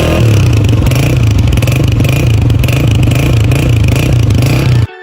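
Honda CG 125 single-cylinder four-stroke motorcycle engine running loud with a dense, pulsing exhaust rumble; it cuts off abruptly near the end.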